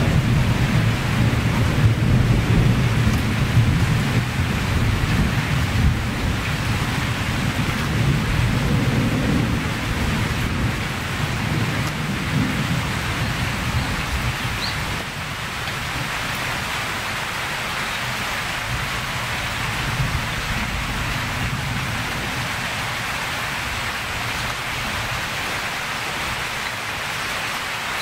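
Steady rain falling, with a low rolling rumble of thunder through the first half that fades out about halfway through, leaving only the rain.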